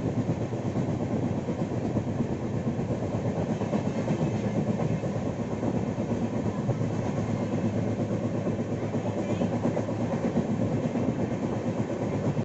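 Passenger train of LHB coaches running along the track: a steady, continuous noise of wheels on rail.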